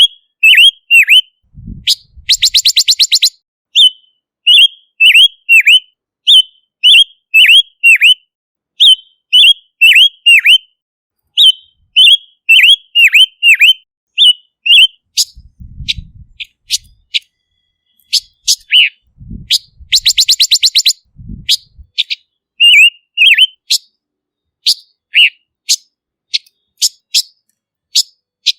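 Silver-eared mesia calling: a run of short notes that drop in pitch, about one or two a second. The run is broken twice by a fast rattling trill lasting about a second, and the notes turn sharper and more clipped near the end. A few faint low thumps sit underneath.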